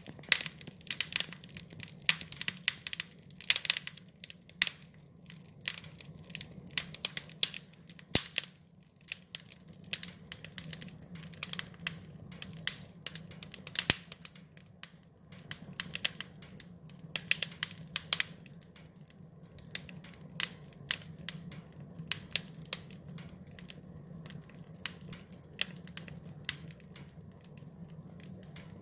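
Wood fire crackling: irregular sharp pops and snaps, thickest through the first half, over a low steady hum.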